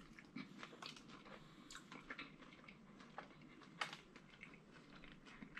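Faint chewing of a bite of fried Philly cheesesteak egg roll, with scattered small clicks and soft crunches; one sharper click a little before four seconds in.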